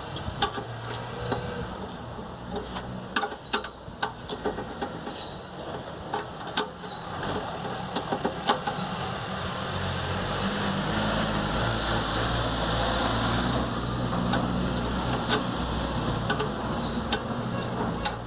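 Volkswagen Beetle's air-cooled engine running, with irregular ticks and a scraping from the alternator fan; the engine gets louder from about ten seconds in. The owner first took the noise for the fan rubbing its sheet-metal housing, then traced it to a worn alternator bearing.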